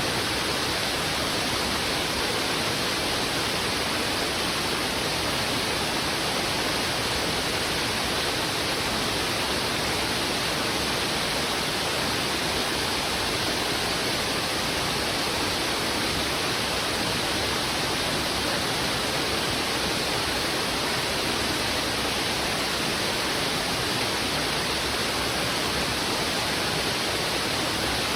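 River water rushing steadily over rocks: an even, unbroken hiss of heavy flowing water with no other distinct sounds.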